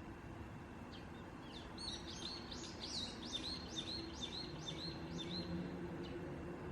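A bird singing a quick run of about ten repeated chirping notes, starting about two seconds in and lasting about four seconds, over a steady low hum of room noise.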